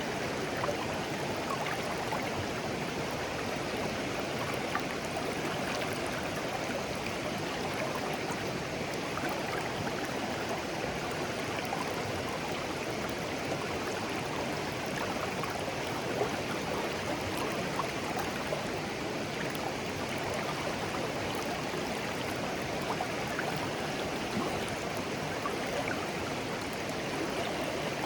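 Shallow clear stream flowing and babbling over stones, a steady rush of water with small splashes and gurgles.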